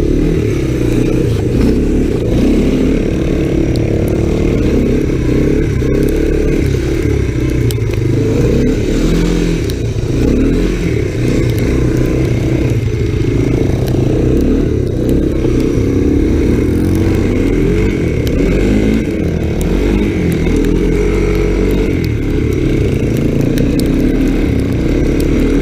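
Honda ATC 250SX three-wheeler's single-cylinder four-stroke engine running as it is ridden, its note rising and falling with the throttle.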